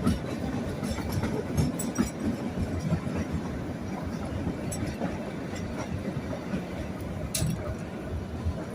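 Kalka–Shimla narrow-gauge toy train running along the track: a steady rumble of wheels and coach with a few sharp clicks.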